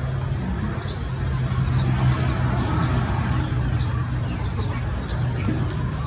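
Small birds chirping in short, high, falling notes, several a second, over a steady low hum.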